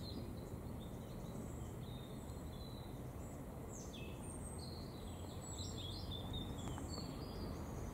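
Small birds chirping now and then, short high calls scattered through, over a steady low outdoor background rumble.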